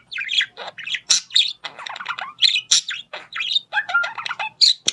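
Parrot chirping and squawking in a quick, irregular run of short calls, some shrill and some harsh.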